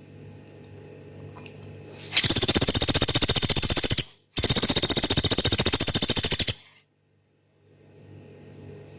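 Pelatuk beras, a small pygmy woodpecker, giving two long, fast, harsh rattling trills of about two seconds each, separated by a brief pause, with a faint low hum between calls.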